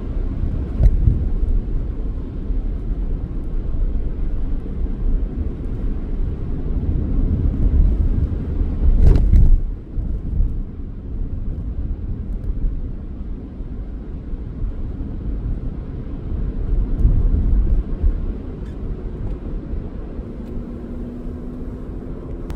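Steady low rumble of a car being driven, engine and road noise, with one sharp knock about nine seconds in.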